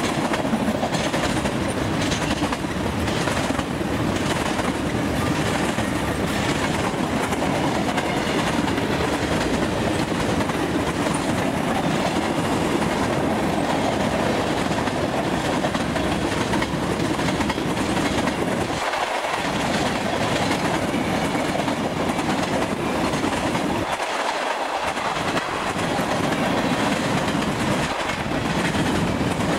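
A train rolling past at close range, its wheels clicking over the rail joints in a steady clickety-clack. The low rumble briefly drops away twice, about two-thirds of the way through.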